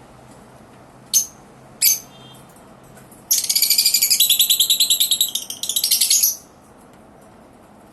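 Lovebirds calling: two short, sharp chirps about a second in and two seconds in, then about three seconds of loud, rapid, shrill chattering that stops suddenly.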